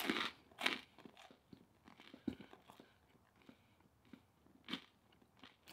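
A person chewing food in the mouth: irregular soft crunches and clicks, a few louder ones near the start and again about three-quarters of the way through.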